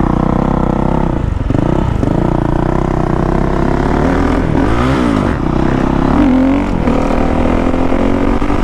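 Honda CRF450R dirt bike's single-cylinder four-stroke engine running under throttle while riding. Its pitch mostly holds steady, with a short dip about a second and a half in and a fall-and-climb around the middle as the throttle is rolled off and back on.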